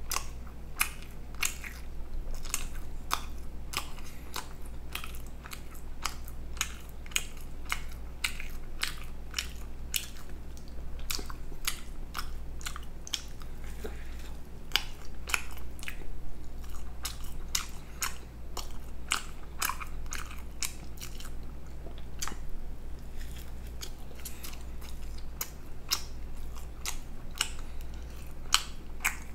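Close-miked eating: a person biting and chewing fast food, with a steady, irregular run of sharp crunchy clicks and wet mouth sounds. A steady low hum lies underneath.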